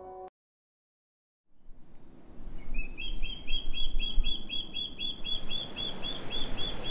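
A bird chirping over and over, about three short chirps a second, over a steady high hiss of outdoor ambience. Before it, piano music stops abruptly, and after a second or so of silence the ambience fades in.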